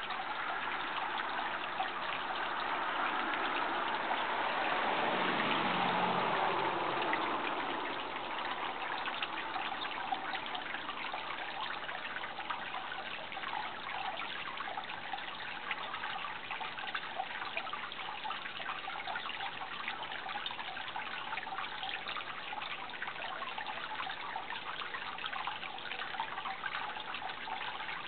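Water trickling and splashing steadily. Partway through, a louder sound swells and drops in pitch as it passes, then fades back into the water sound.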